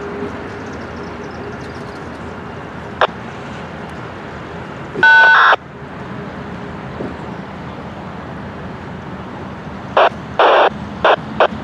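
Amtrak passenger train rolling by with a steady rumble of wheels on rail. A single click comes about three seconds in, and a short loud tone sounds about halfway through. A run of short, loud, choppy bursts begins near the end.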